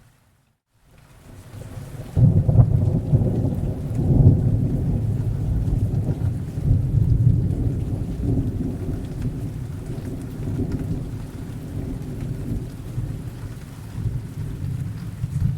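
Thunderstorm: a long rolling rumble of thunder that builds about two seconds in after a brief silence, peaks twice, slowly fades and swells again near the end, over steady rain.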